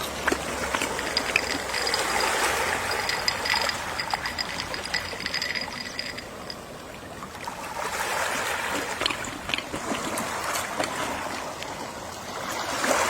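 Gentle sea waves washing onto a shore, the surf swelling and easing in slow surges about every five seconds.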